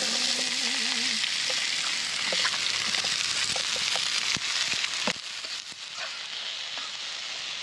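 Chopped vegetables sizzling in hot cooking oil in a metal frying pan just after being tipped in, a steady loud sizzle. They are stirred with a metal utensil, which clicks against the pan twice around four and five seconds in. The sizzle eases slightly after that.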